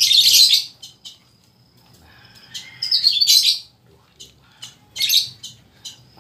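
Small birds chirping, with three louder bursts of high twittering: at the start, about three seconds in, and about five seconds in. Quick short chirps keep sounding between them.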